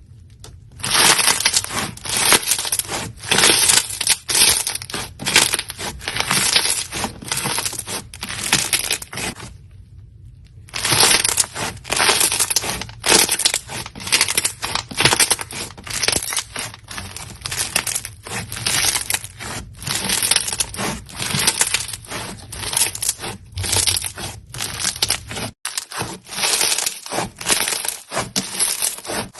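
Dense crunching and crackling of something brittle being crushed, many small cracks a second, with a short pause about ten seconds in and sparser cracks near the end.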